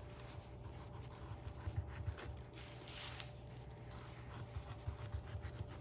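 Faint, irregular scraping and small clicks of a knife cutting and scooping the flesh out of a pineapple, over a steady low hum.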